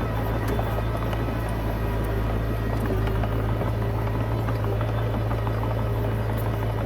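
Komatsu D20P bulldozer's diesel engine running steadily with a deep, even drone, with scattered light clicks and clanks over it.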